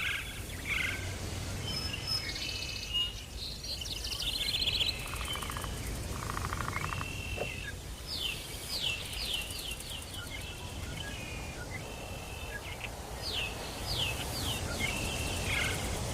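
Several wild birds calling at once in a jungle soundscape, with chirps, buzzy trills and runs of quick falling whistled notes about eight seconds in and again near the end. A steady low background rumble lies under them.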